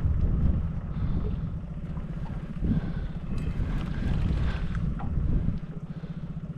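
Small boat's outboard motor running under way, a steady low pulsing rumble that eases off, picks up again, then drops back near the end, with wind buffeting the microphone.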